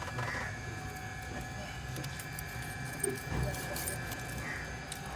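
Light metallic clinks of tools or parts being handled, over a low steady hum.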